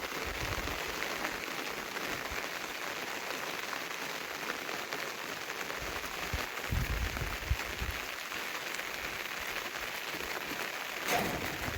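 Steady rain falling, with many small drops ticking on surfaces. A few low thuds come about seven seconds in, and a brief louder knock near the end.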